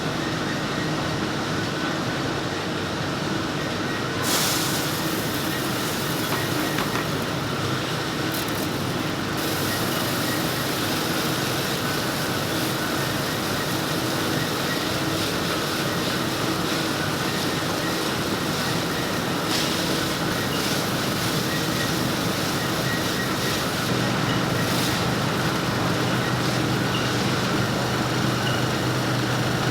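Button-polishing machinery running in the factory: a steady mechanical din with a faint hum. About three-quarters of the way through, a lower hum joins as another motor comes on.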